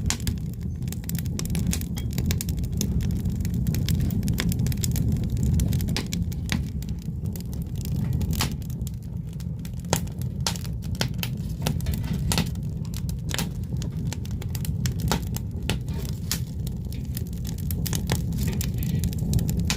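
Firewood burning, crackling and popping at irregular intervals over a steady low rumble.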